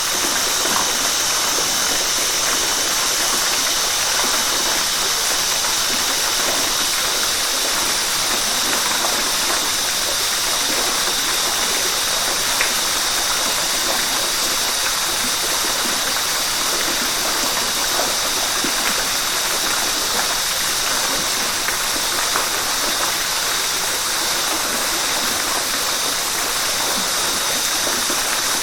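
Flowing river water running steadily, with small splashes scattered through it.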